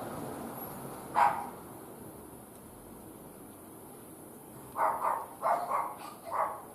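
A dog barking: a single bark about a second in, then a quick run of about five barks near the end.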